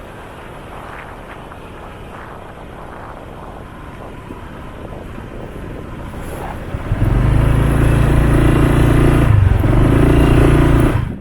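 Motorcycle riding slowly with wind and road noise, then its engine idling loudly and steadily from about seven seconds in, cutting off suddenly near the end as it is switched off on parking.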